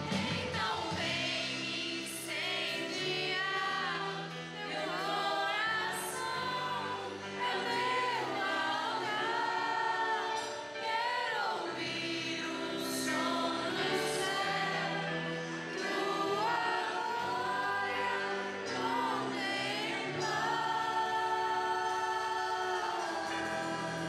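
Christian worship music: a group of voices singing a melody together over instrumental backing.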